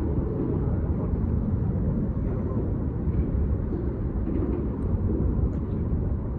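Steady low rumbling background noise outdoors, even throughout with no distinct events.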